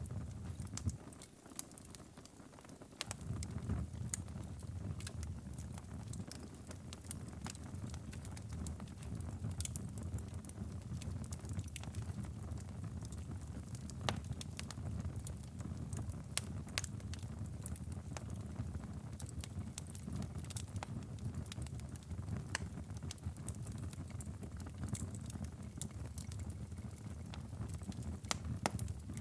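Wood fire crackling in a fireplace: irregular sharp pops and snaps over a steady low rumble, which drops out briefly about two seconds in.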